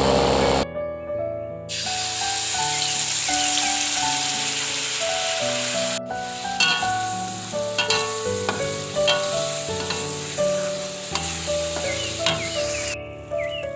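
Food sizzling steadily as it fries in hot oil in a pan, under background music with a simple melody. The sizzle comes in a little under two seconds in and stops just before the end.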